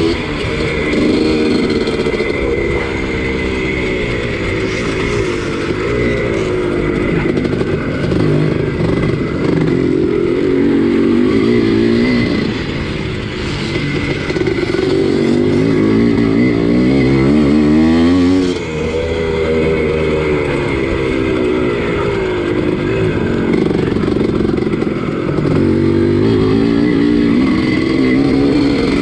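Two-stroke motocross bike engine, a 1983 Husqvarna 250CR, racing: the revs climb and then drop again and again every few seconds as it is throttled and shifted around the track.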